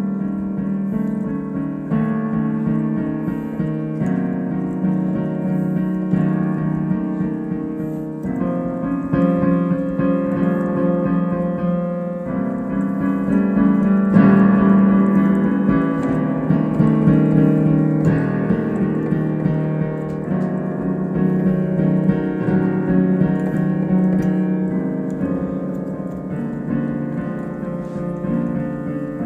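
Improvised solo piano playing sustained chords in the lower-middle register, changing about every two seconds and growing louder about halfway through before easing back.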